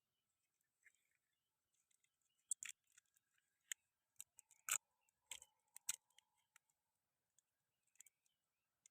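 Near silence broken by a scatter of faint, sharp clicks and taps, clustered in the middle; no engine is running.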